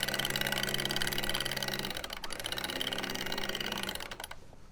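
Sailboat sheet winch running to trim the Code Zero sheet: a steady motor whir with fast clicking from the winch. It runs twice, with a short break about two seconds in, and stops shortly before the end.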